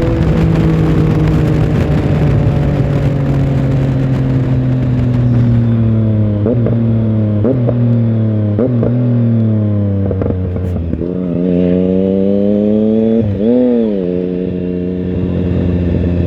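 Triumph Tiger Sport 1050's inline three-cylinder engine heard from onboard, revs falling steadily as the bike slows on engine braking, with wind noise fading out. Several brief rises in revs about a second apart, as on downshifts, and a bigger one a few seconds later, then a steady low engine note.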